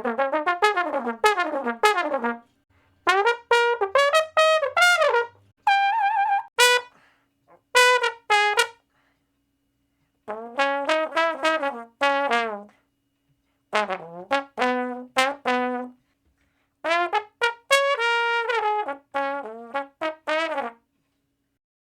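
A brass instrument playing short phrases of quick notes and slides, in about six bursts separated by brief silences.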